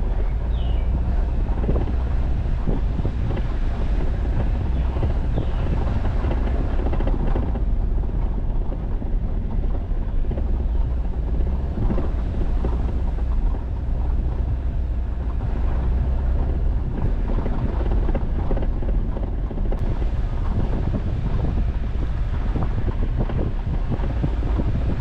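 Jeep Wrangler driving steadily along an unpaved forest road: a continuous low rumble of engine and tyres with road noise over it.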